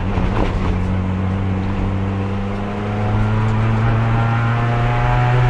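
Race car's engine heard from inside the car, pulling in fourth gear, the only gear usable on its failing transmission. The engine note holds steady, then rises slowly from about halfway through as the revs climb.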